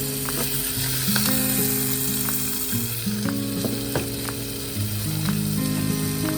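Food sizzling as it fries in a pan, a steady hiss with a few sharp clicks of utensils, under background music of slow held chords.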